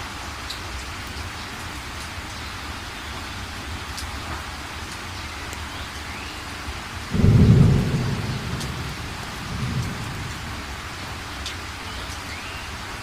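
Steady heavy rain, with a sudden loud clap of thunder about seven seconds in that rumbles away over the next few seconds, swelling once more before it fades.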